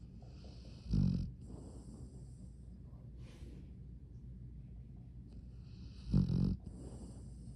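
Bull terrier snoring in its sleep: two loud snores about five seconds apart, each with a long hissing breath around it.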